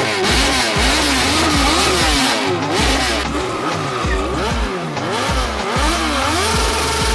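Motorcycle engines revving up and down again and again, with the deep bass and beat of a hip hop track underneath.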